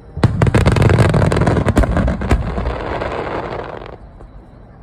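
Fireworks going off in a rapid barrage of bangs and crackling, starting just after the beginning and dying away after about four seconds.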